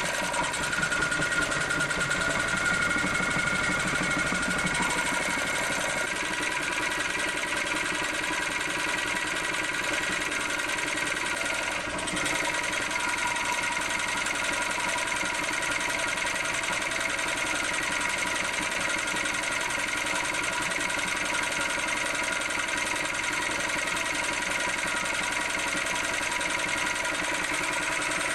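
Small engine fitted with a GEET reactor running steadily, still cold, on fuel vapour drawn from a bubbler holding a dirty mix of diesel, soap and water.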